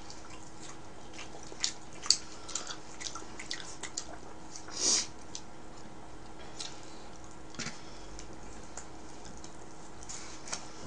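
Close-up mouth sounds of a person chewing pizza: scattered short wet clicks and smacks. One louder hissy burst comes about five seconds in.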